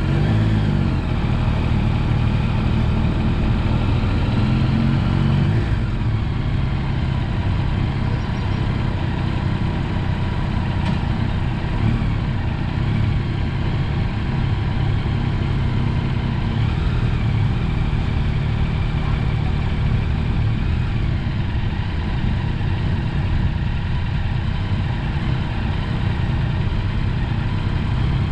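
Motorcycle engine running under way, its note rising and falling a few times in the first six seconds, then holding a steady drone.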